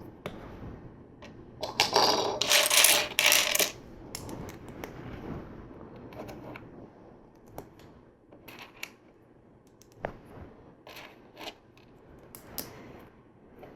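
Loose plastic LEGO pieces clattering against each other while being sorted through, loudest for a couple of seconds near the start. This is followed by a scattering of sharp single clicks as bricks are picked up and pressed together.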